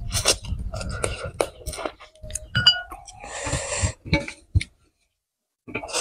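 Close-miked chewing and lip-smacking of a person eating rice by hand, many short wet clicks with a brief rushing hiss about three seconds in and a short silent pause near the end.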